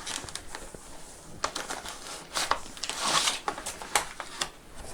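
Paper rustling and crinkling as a printed catalogue is handled and its pages turned, in several short rustles with small clicks, the busiest stretch about three seconds in.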